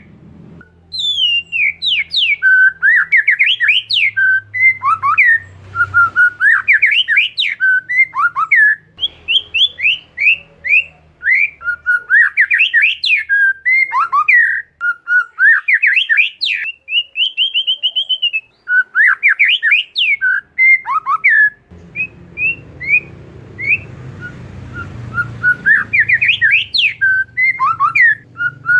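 Oriental magpie-robin singing a continuous, varied song of quick rising and falling whistles and chattering notes, with one clear whistle held for about a second and a half past the middle.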